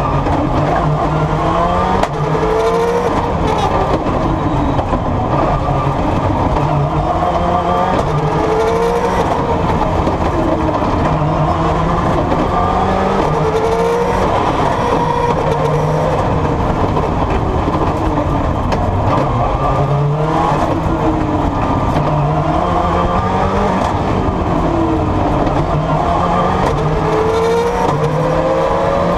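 Subaru rally car's engine heard from inside the cabin, revving hard through the gears: its pitch climbs, drops back at each gear change, and climbs again over and over, with steady road and tyre noise underneath.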